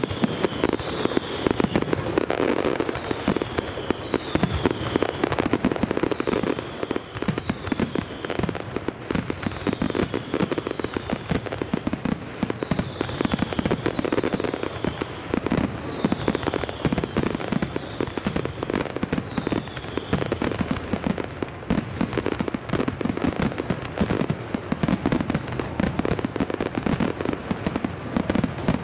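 Aerial fireworks in a dense barrage: rapid, overlapping bangs and crackling from many shells bursting at once. A short falling whistle comes about once a second through roughly the first two-thirds.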